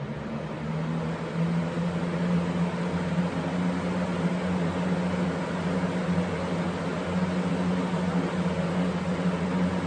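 2015 Classic 20-inch box fan's small PSC motor and blades on high speed, finishing its spin-up in the first second or so with a rising hum, then running steadily: a rush of air over a low hum. The rushing is turbulence that the owner puts down to the fan's overly restrictive grilles.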